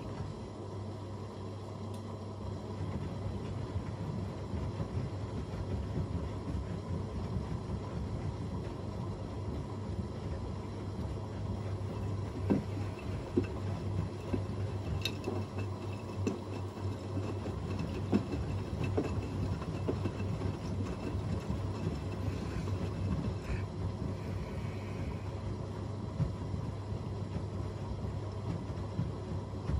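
Two washing machines, an AEG Öko-Lavamat 88840 and a Miele Novotronic W 985 WPS, running a wash cycle: a steady low hum with a few soft knocks in the middle.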